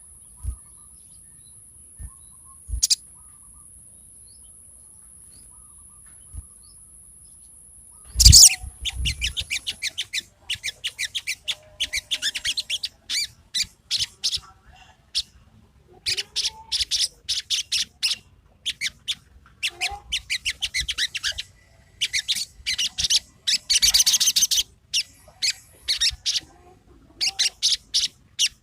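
Sogon birdsong: after a quiet stretch with a steady high hiss, the bird launches about eight seconds in into rapid runs of sharp, high chirping notes in quick bursts with short pauses. It is the excited 'ngobra' song used as a lure recording to set off sogon birds that are reluctant to sing.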